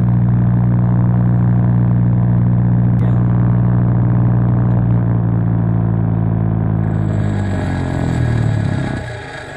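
Bench grinder motor running with a steady hum, then switched off about seven seconds in, its pitch falling as the wheel spins down.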